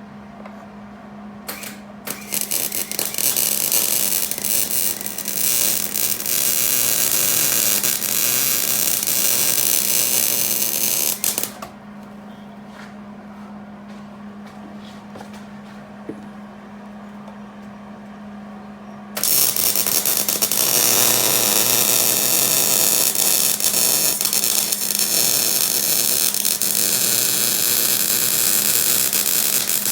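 MIG welder arc crackling and sputtering as a bead is laid on a rusty exhaust flange, in two long passes with a short tack-like burst before the first. Between the passes a steady low hum from the idle welder.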